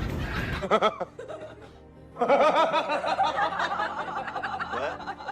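Laughter over music, broken by a short lull about a second in, then coming back louder with rapid wavering pitch.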